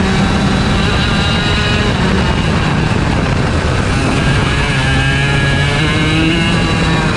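IAME Leopard 125cc two-stroke kart engine running hard on track, its note dropping in pitch about four seconds in.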